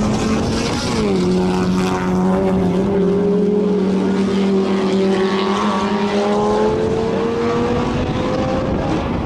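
Sport compact race car engine running at sustained high revs; its pitch drops about a second in, holds steady, then slowly climbs over the last few seconds as the car pulls.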